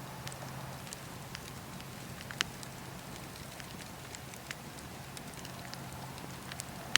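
Campfire burning with a steady low hiss and irregular sharp crackles and pops, one louder pop about two and a half seconds in.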